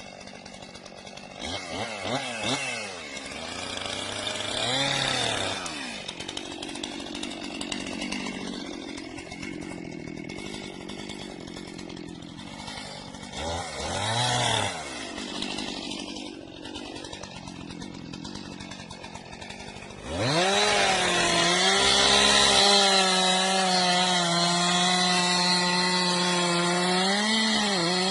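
Chainsaw engine idling and revved up twice, then from about twenty seconds in held at high revs and noticeably louder, the pitch sagging and recovering as it cuts through wood.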